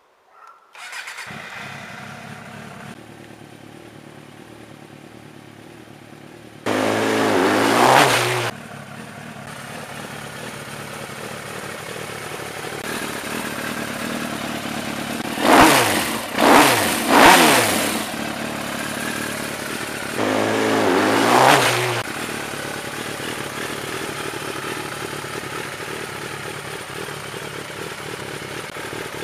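Suzuki GSX-R 750 café racer's inline-four engine starting about a second in, then idling with throttle revs: one longer rev about seven seconds in, three quick blips in a row around fifteen seconds, and another rev around twenty seconds.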